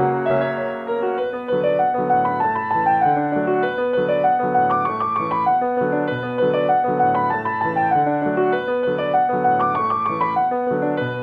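Background piano music, a gentle melody with a steady accompaniment of flowing notes.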